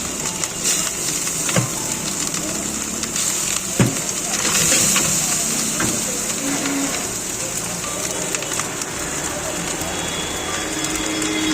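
Fried rice sizzling in a hot wok, a steady hiss with a few sharp knocks of the spatula.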